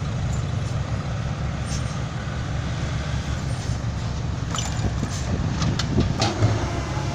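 Six-wheel dump truck's diesel engine running steadily with a low rumble, with a few short rattles and knocks in the second half.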